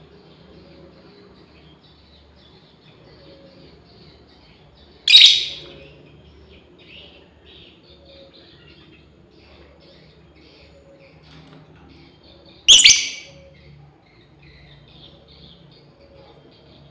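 Lovebirds chattering faintly throughout, broken twice by a very loud, shrill call of under a second, about five seconds in and again near thirteen seconds: a female lovebird calling to its companions.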